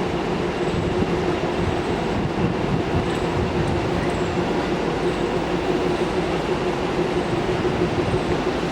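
Express passenger train running through a station at speed without stopping: a steady rush of wheels on rail with a constant hum.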